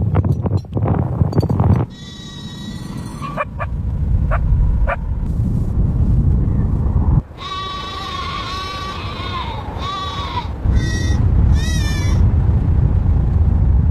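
Livestock bleating several times, with one long wavering bleat about halfway through, over a steady low rumble.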